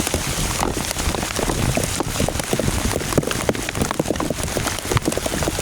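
Heavy rain pelting down, a dense steady patter of drops hitting a surface.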